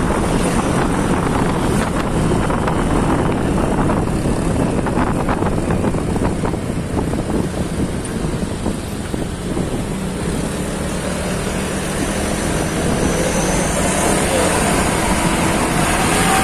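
Vehicle engine running steadily with wind buffeting the microphone, with a stretch of rapid crackling knocks in the middle.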